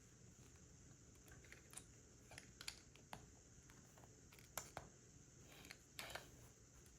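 Faint, irregular clicks and taps of plastic Lego pieces being handled and fitted together, with two louder clacks about four and a half and six seconds in.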